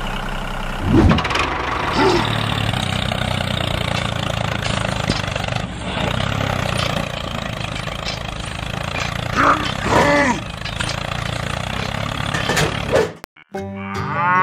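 Tractor engine running steadily, with a few short sliding tones rising and falling over it. About 13 seconds in it cuts off abruptly and a cow starts to moo at the very end.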